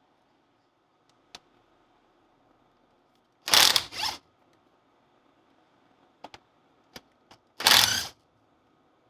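Hand-tool work on a Land Rover swivel housing: two short, loud metal-on-metal rasping noises about four seconds apart, each about half a second long, with a few faint clicks between them.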